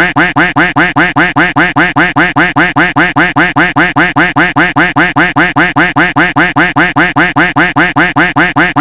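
A duck quack sound effect looped over and over, loud identical quacks at an even rate of about five a second.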